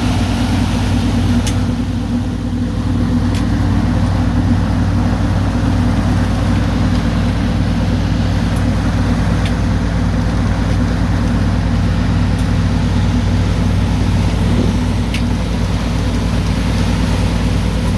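A boat's engine running at a steady speed, a constant low drone, with a few faint clicks on top.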